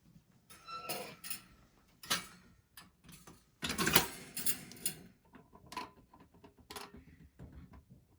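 Irregular clicks, knocks and clatter of heater parts being handled, with the longest and loudest clatter about four seconds in and a few separate sharp clicks near the end.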